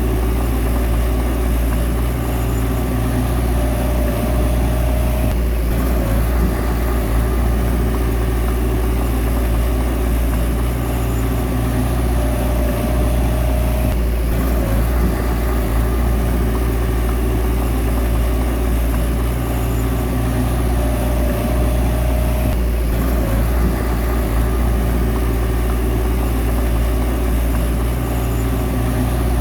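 Bulldozer's diesel engine running steadily under work, with a brief higher whine that comes back about every eight to nine seconds.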